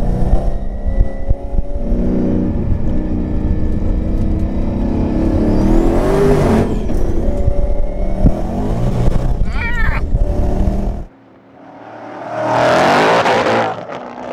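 Whipple-supercharged Ford Mustang GT's 5.0 V8 running at low revs inside the cabin, its pitch rising briefly about six seconds in. After a sudden cut near the end, a rush of noise swells and fades.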